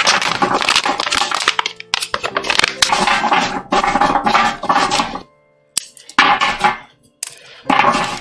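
Kitchen work sounds from a bowl and utensils, coming in irregular bursts with short pauses, over quiet background music.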